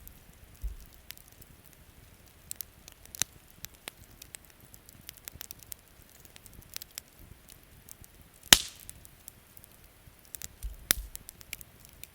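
Wood campfire crackling with scattered sharp pops, one loud snap about eight seconds in, over faint rain.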